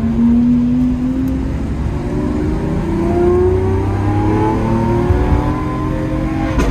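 Supercar V12 engine accelerating: its note jumps up at the start, climbs slowly over the next few seconds, then holds steady.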